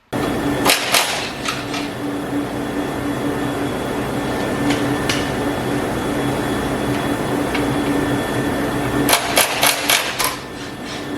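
A steady machine hum runs throughout, with sharp metallic clicks and knocks over it: a couple about a second in, a few more scattered, and a quick run of about five near the end. These are the sounds of tools and parts being worked during disassembly.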